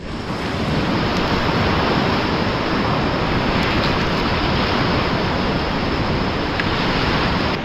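Ocean surf: a steady rushing wash of waves, cutting in and cutting off suddenly.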